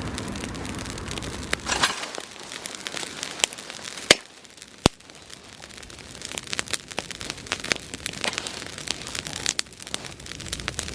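Bonfire of dry grass burning, crackling and popping. A rushing sound of flame fades about two seconds in, leaving scattered crackles with two sharp pops about four and five seconds in, and the crackling grows denser again after about six seconds.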